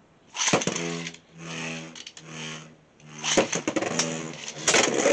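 Beyblade tops spinning in a plastic stadium, clashing with sharp clacks a little over three seconds in and again near the end, over a rattling whir.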